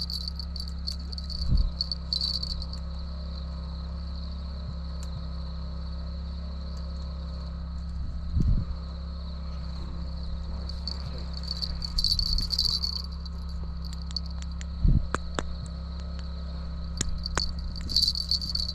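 Crickets chirping steadily, swelling louder about twelve seconds in and again near the end, over a steady low hum. Three dull thumps sound about one and a half, eight and a half and fifteen seconds in.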